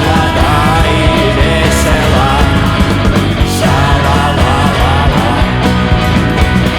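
Rock band music without vocals: an instrumental passage, with a wavering melodic lead over a steady beat.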